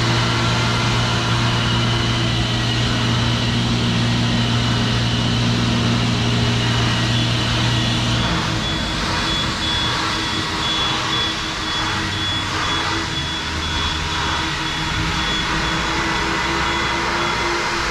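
Automatic car wash machinery running around the car, a steady loud rushing noise with a low hum under it that changes about eight seconds in.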